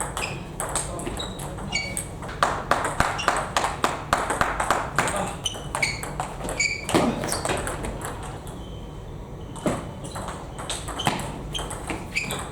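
Table tennis rally: the ball clicking quickly and irregularly off rackets and the table, with a few short high squeaks among the hits. The clicking pauses briefly about eight seconds in, then starts again.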